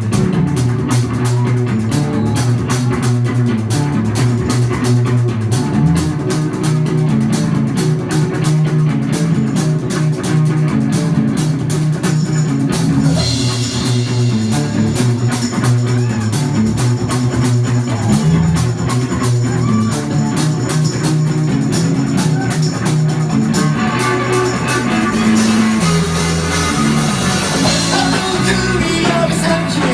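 Rock band playing live: electric guitar, bass and drum kit in an instrumental passage without vocals, the drums keeping a steady beat.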